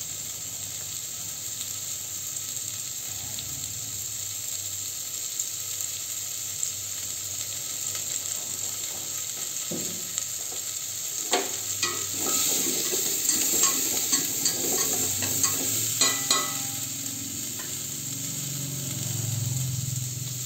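Pumpkin chunks and minced garlic frying in a stainless steel pot, a steady sizzle. About halfway through, a utensil clicks and scrapes against the pot for several seconds as the pieces are stirred, and the sizzling grows louder while they are turned.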